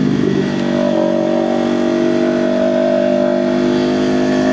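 Kawasaki Ninja 500 parallel-twin engine and exhaust running under way at a steady cruise; the pitch rises slightly about a second in, then holds.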